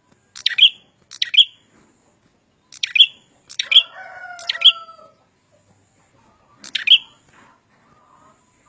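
Prenjak and ciblek, small prinia songbirds, calling with short, sharp, high chirps, several of them in quick pairs. Around halfway through comes a lower, drawn-out note that falls slightly.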